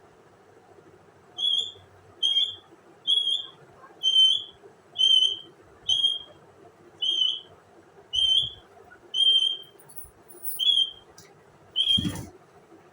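A parrot whistling the same short, high, clear note over and over, about eleven times at roughly one a second, each note bending slightly in pitch. A sharp knock comes near the end.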